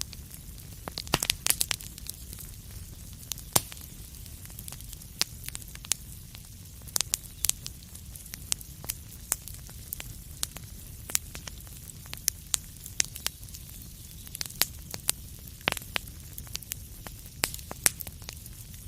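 Wood fire crackling in a fireplace: irregular sharp pops and snaps over a steady low rumble and hiss of the flames, with a quick cluster of pops about a second in.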